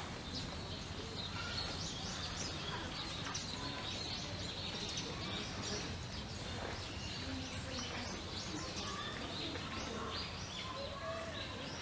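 Small birds chirping repeatedly, many short high calls, over a steady outdoor background hum.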